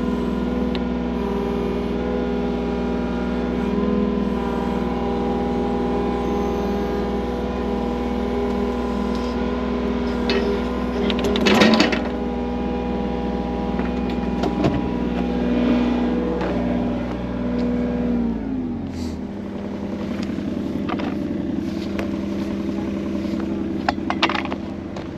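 Skid steer loader engine running steadily at working revs, with a loud clank about halfway through and a few lighter knocks later. About three quarters of the way in the engine slows down to a lower, steady idle.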